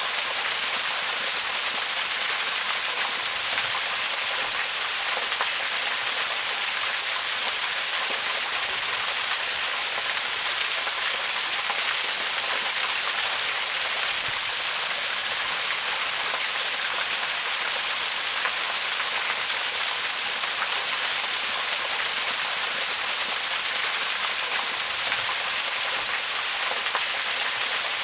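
Waterfall rushing steadily: an even hiss of falling water, weighted toward the high end.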